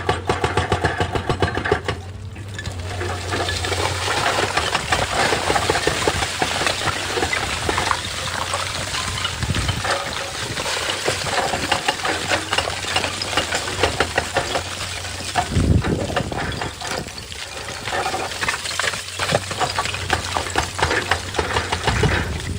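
Excavator engine running while rock scrapes and clatters, a dense stream of irregular knocks and grinding.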